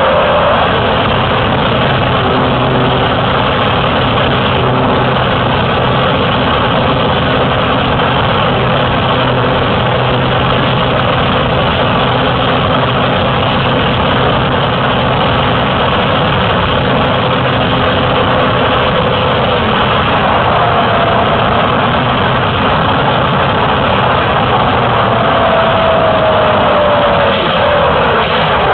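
Cessna light aircraft's piston engine and propeller running steadily, heard loud and close from a camera mounted on the plane. A thin whine above it slides down in pitch near the start and again near the end.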